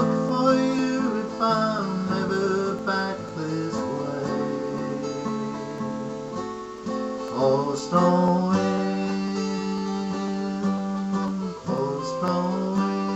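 Acoustic guitar strumming the closing chords of a folk ballad, with a fresh strum every second or so and chords left to ring between them.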